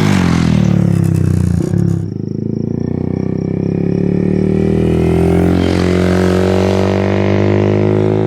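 Honda Grom's single-cylinder engine running through a ZOOM high-mount aftermarket exhaust. Its pitch drops at the start, breaks off about two seconds in, then climbs slowly and holds steady.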